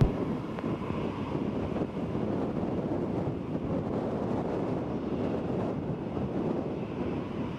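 Strong, gusty typhoon wind buffeting the microphone: a dense, uneven low rumble that rises and falls with the gusts.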